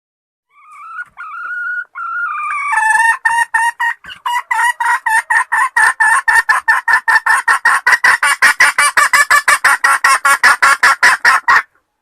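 Junglefowl hen calling: a few drawn-out rising notes, then a long fast run of clucks, about five a second, that stops abruptly near the end. It is the hen's call to attract males.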